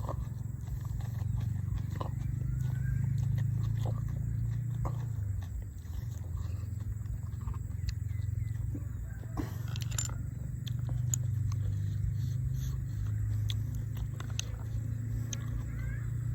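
A person chewing food close to the microphone, with scattered sharp crunches over a low, fluctuating rumble. A bird chirps briefly twice, about two seconds in and near the end.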